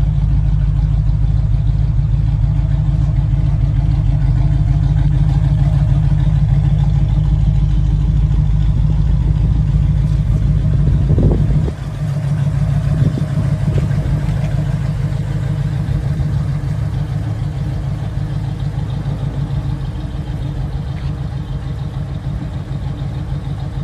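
1968 Pontiac Firebird's engine running at a steady idle, with a brief change in its sound about halfway through.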